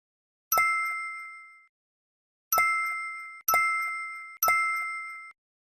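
Four bell-like ding chimes. The first rings alone about half a second in, and three more follow close together from about two and a half seconds in. Each one rings on a steady pitch and dies away over about a second.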